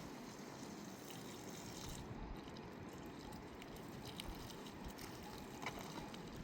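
Steady running water with a few faint light clicks.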